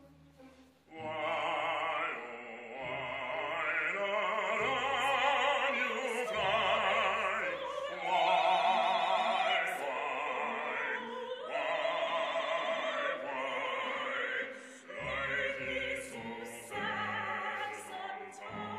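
Operatic singing: a singer holds long high notes with wide vibrato over low instrumental accompaniment, coming in about a second in.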